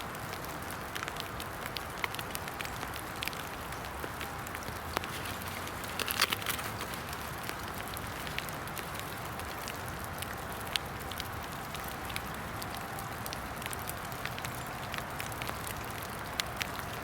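Steady hiss of rain falling in woodland, with scattered sharp ticks and a short flurry of louder ticks about six seconds in.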